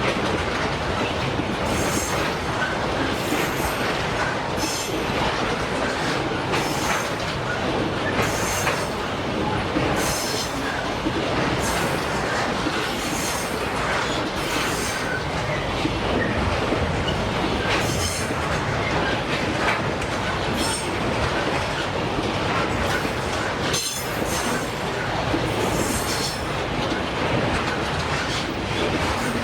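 Freight train cars rolling past on the track: a steady rumble and clatter of wheels on rail, with short high-pitched wheel squeals every second or two.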